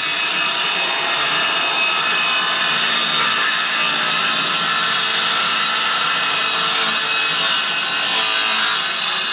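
Electric power tool cutting wood, running steadily with a high motor whine.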